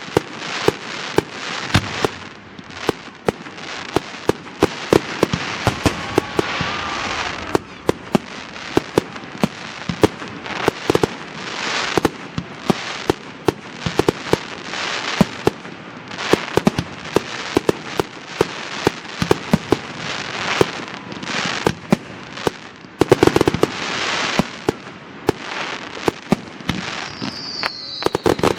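Fireworks display with a rapid, unbroken run of bangs and crackling from bursting aerial shells. A short whistle rises about six seconds in, and another falls near the end.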